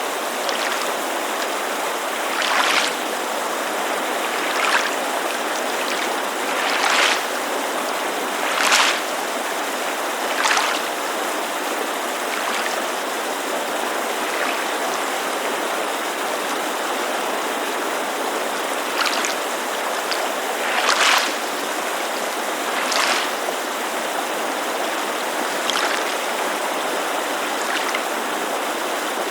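Small waves lapping against a lake shore, a soft splash about every two seconds with a few seconds' lull in the middle, over the steady rush of a mountainside creek.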